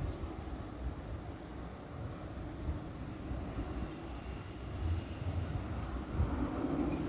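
Boeing 737-800 jet airliner engines heard from outdoors as a low rumble, swelling near the end, with wind buffeting the microphone.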